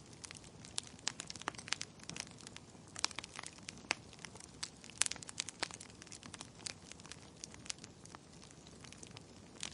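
An open wood fire crackling, with irregular sharp pops and snaps from the burning wood over a soft, steady hiss of flame.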